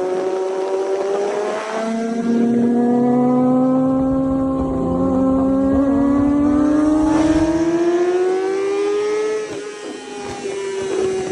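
Sport motorcycle engine running under load, its note rising slowly and steadily for several seconds, then falling away briefly near the end before it picks up again.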